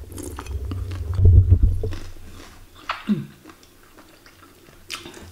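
Close-up mouth sounds of chewing a soft, chewy tapioca meatball (bakso aci), with wet clicks and squelches that are busiest in the first two seconds. A brief low vocal murmur falls in pitch about three seconds in.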